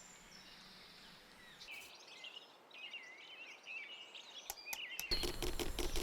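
Faint birdsong chirping in a cartoon soundtrack. A few sharp clicks come near the end, and then a louder noisy sound cuts in abruptly.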